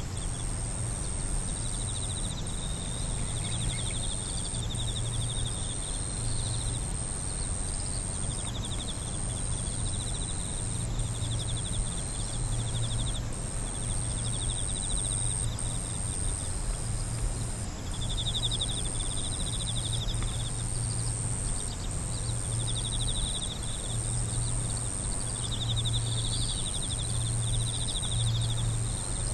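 Night insect chorus: crickets trilling in repeated phrases of one to two seconds, over a steady high-pitched insect drone, with a low hum underneath.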